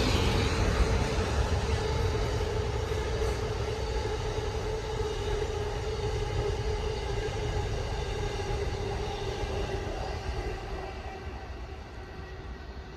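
Amtrak passenger train behind an ACS-64 electric locomotive rolling past on the rails: a steady rumble of wheels on track with a steady hum that slowly drops in pitch, fading away as the last cars go by.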